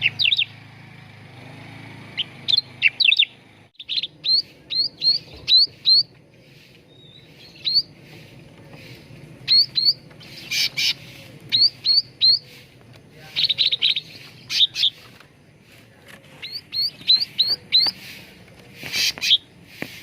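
Cucak ranting songbird calling: runs of short, quick rising whistled notes, with a few harsher chattering bursts mixed in.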